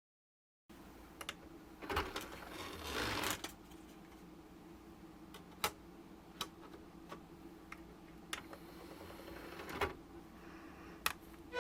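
Scattered light clicks and taps, a few seconds apart, with a brief rustle of handling about two to three seconds in, over quiet room tone.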